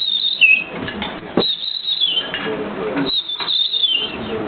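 A person mimicking a dunnock's (hedge sparrow's) song: three short, high warbling phrases about a second and a half apart, each falling slightly in pitch.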